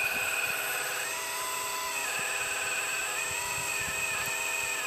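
Electric hydraulic pump of a 1/12-scale RC4WD Earth Digger 4200XL excavator running with a steady whine, its pitch dipping and rising several times as the machine works.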